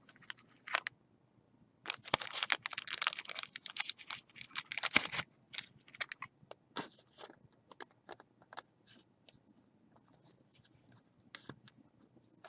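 Trading cards and their packaging being handled: a few seconds of dense crinkling and rustling, then scattered light clicks and taps.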